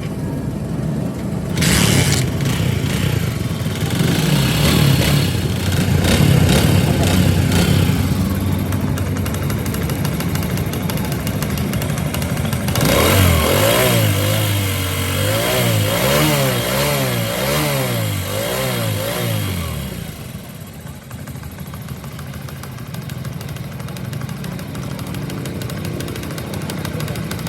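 A vehicle engine running, revved up and down again and again for several seconds in the middle, then settling back to a quieter run.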